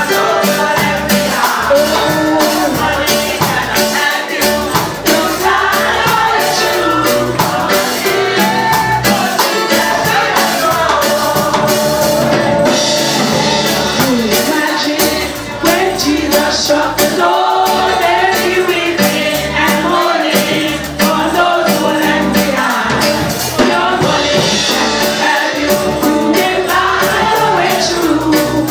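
Church choir singing a gospel song with a steady percussion beat underneath.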